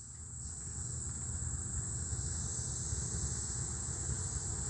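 Steady high-pitched chorus of insects such as crickets, under a low rumble on the microphone that grows a little louder in the first couple of seconds.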